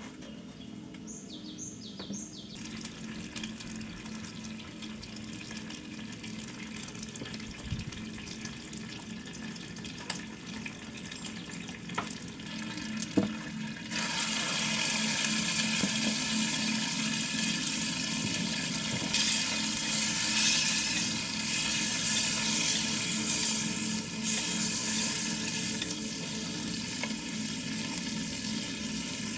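Water running and splashing steadily, becoming louder and brighter about halfway through. A few bird chirps come in the first two seconds.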